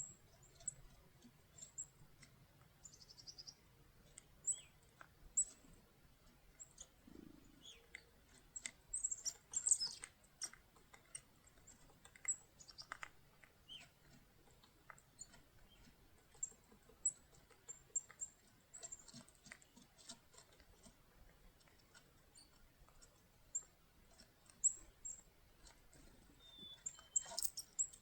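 Black-capped chickadees calling at a feeder: short, high, thin notes repeated irregularly. Scattered light clicks and taps run between them.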